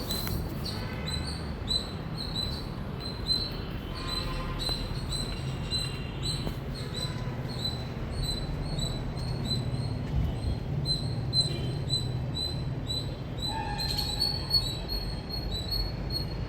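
Indian palm squirrel calling: a long, even run of short, high chirps, about three a second.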